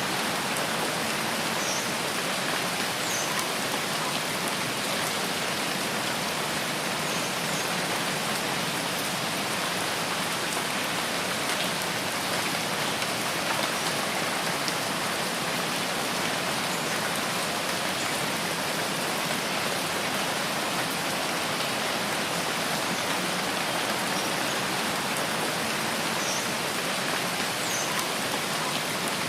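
Steady, dense rain falling on foliage in a rain forest, an even hiss with no change in strength. A few faint, short high chirps come through in pairs, near the start and again near the end.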